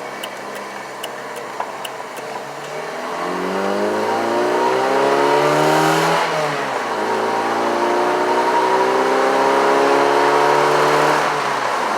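Truck engine accelerating hard onto a highway: its pitch climbs for about three seconds, drops at an upshift about six seconds in, then climbs again for about four seconds before dropping near the end.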